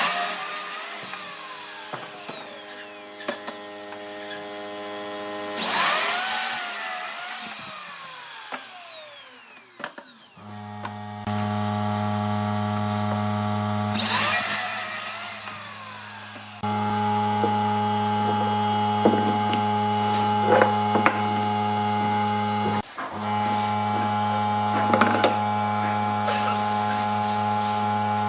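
Woodworking power tools at work on wood: three loud cuts, each followed by the tool's motor winding down in pitch. From about ten seconds in, a steady motor hum runs with short scrapes and clicks over it, cutting out briefly once near the end.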